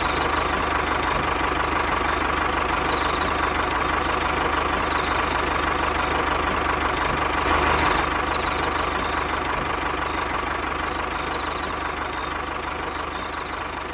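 Engine idling steadily with a low, even pulse, swelling briefly about halfway through and then slowly fading.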